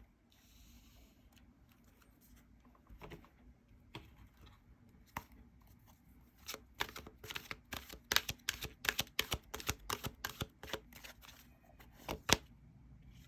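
Tarot cards being shuffled and handled: a short swish just after the start, scattered taps, then a quick run of sharp card clicks through the second half, ending with a louder snap.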